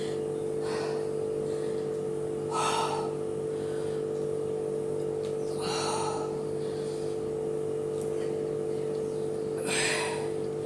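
A person's heavy breathing during lunge reps: four sharp, breathy exhales about three seconds apart, over a steady low electrical or fan-like hum.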